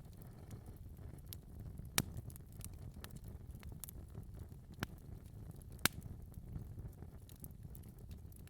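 Wood fire crackling in a fireplace: a low steady rumble of burning with scattered sharp pops, three of them louder than the rest.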